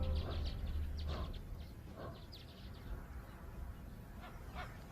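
Male lions feeding at a carcass, giving short, irregular growls and snarls. A low hum fades out about a second in.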